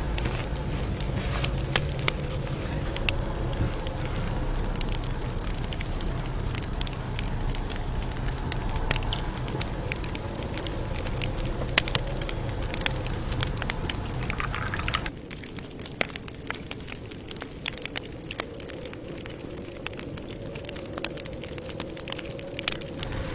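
Campfire crackling, with scattered sharp pops and snaps over a steady hiss of burning. A low rumble underneath drops away about two-thirds of the way through.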